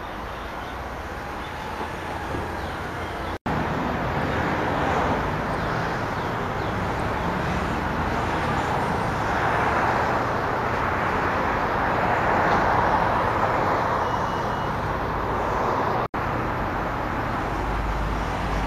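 Road traffic going by: a steady wash of vehicle noise that swells and fades slowly as vehicles pass, cut off briefly twice.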